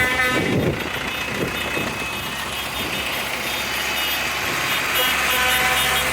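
Tractor engines running as tractors drive past, growing louder toward the end, with steady high tones sounding over them.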